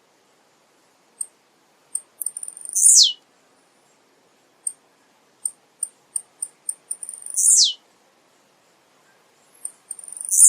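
Male blue-black grassquit (tiziu) singing: three times, a short, high, loud note that drops steeply in pitch, led in and separated by soft, quick ticking notes.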